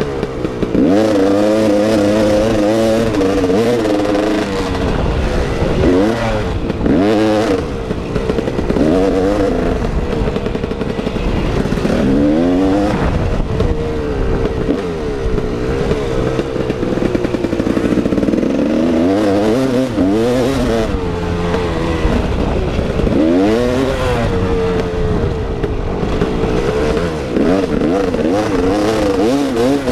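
KTM 380 EXC two-stroke dirt bike engine under hard riding, the revs climbing and falling back again and again as the throttle is opened and shut.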